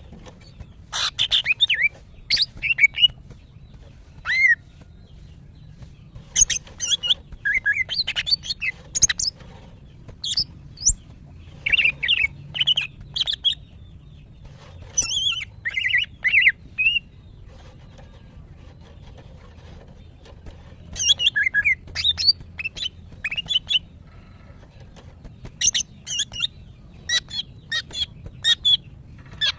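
Female green leafbird calling in bouts of rapid sharp chirps and short whistled glides, with pauses of one to three seconds between bouts. These are the calls of a hen in breeding condition calling for a male. A faint steady low hum runs underneath.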